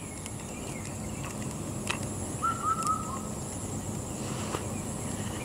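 Rural outdoor ambience with a steady high insect hiss, two faint clicks, and a bird's short call of three quick chirps about two and a half seconds in.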